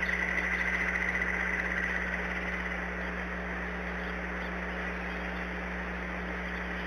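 A bird's high, rapidly pulsing call over the first two seconds or so, fading out, over a steady low hum.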